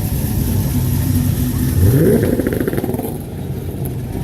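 Car engine running, blipped once about two seconds in: the pitch climbs quickly, then falls back toward idle.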